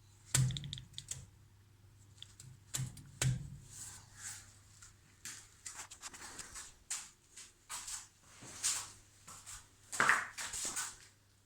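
Irregular clicks, knocks and short scraping sounds, as of objects being handled, over a faint steady low hum.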